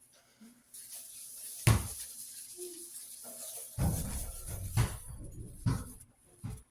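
Knocks and clunks of a metal fan guard being handled, with three sharper knocks standing out, over a steady hiss.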